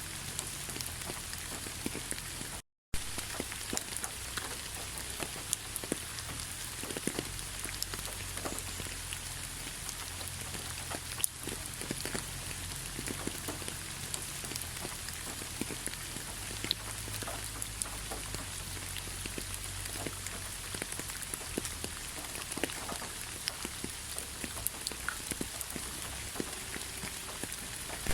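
Steady rain, with many separate raindrops ticking against a constant hiss. The sound cuts out completely for a split second about three seconds in.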